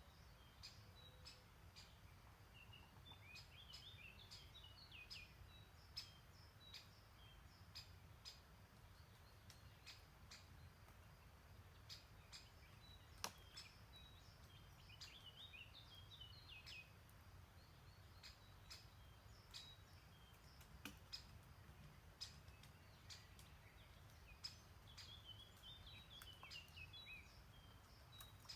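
A songbird singing a short, quick phrase three times, about every ten seconds, faint against a low steady rumble, with scattered faint clicks.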